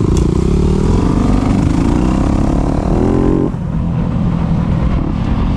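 Dirt bike engine accelerating, its pitch climbing steadily, then dropping off suddenly about three and a half seconds in as the throttle is rolled off, after which it runs on at lower revs. A heavy low rumble from the camera's built-in microphone underlies it.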